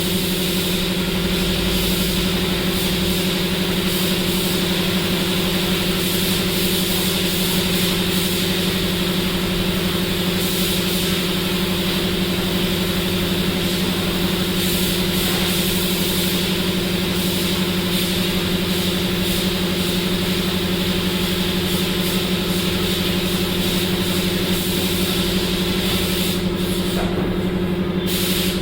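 A steady machine hum with a constant hiss over it. The top of the hiss drops out briefly near the end.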